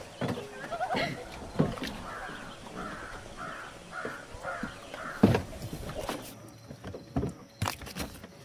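A bird calling in a run of about six short calls in quick succession, over footsteps on a wooden dock. About five seconds in, a loud thump as a man steps down into a small wooden boat.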